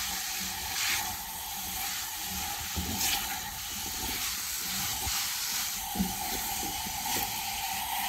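Boneless chicken pieces sizzling steadily in a hot pan over high heat, with a few faint knocks. The chicken's released water has cooked off, so it is dry-frying at the final stage of cooking.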